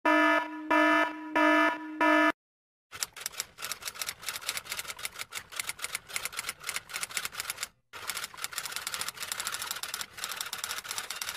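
Sound-effect clips: four short electronic buzzer beeps at an even pace, then, after a brief gap, rapid typewriter-style key clicking for about eight seconds, broken by a short pause in the middle.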